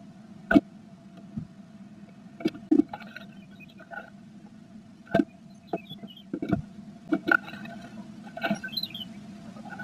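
Irregular taps, knocks and scratches of a female blue tit moving about inside a wooden nest box as she builds her nest, over a steady low hum. Faint high chirps come in twice, near the middle and near the end.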